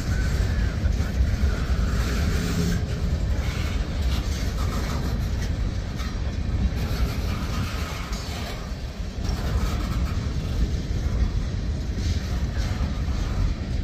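Freight cars of a Norfolk Southern manifest train rolling past, their steel wheels rumbling steadily on the rails.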